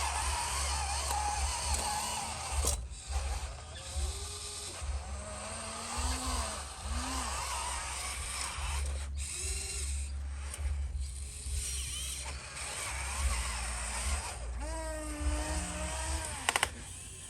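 Small electric motors and gearboxes of radio-controlled model construction machines running, whining and grinding, the whine rising and falling in pitch as they are throttled on and off.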